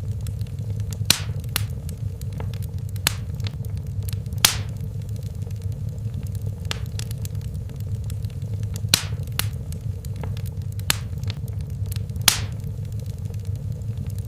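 Wood fire burning in a fireplace: a steady low rumble of flames with irregular sharp crackles and pops from the logs, and a handful of louder snaps spread unevenly through.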